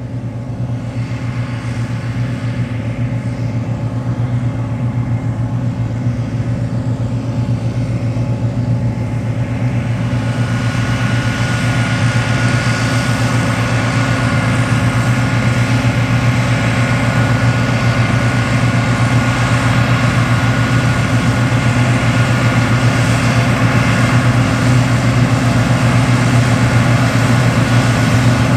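John Deere 8820 Titan II combine running under load while harvesting wheat: a steady diesel engine hum with the noise of the grain head and threshing machinery. It grows gradually louder, and a steady whine and more mechanical noise join in about ten seconds in.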